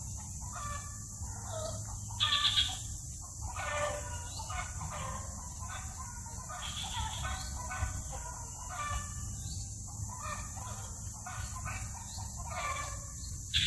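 Birds calling over and over in short pitched calls, the loudest a little over two seconds in, over a steady background hum.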